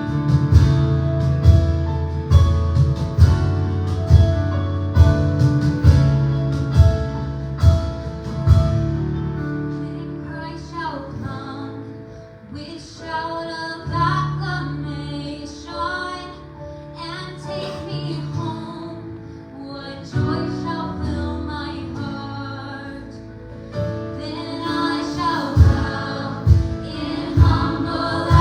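Live gospel song: singers over a band with drums and bass. The drums drop out after about nine seconds for a quieter sung stretch, then come back in near the end.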